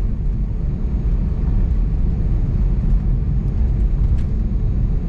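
Steady low rumble of an Airbus A320neo's CFM LEAP-1A engines and airflow, heard from inside the passenger cabin.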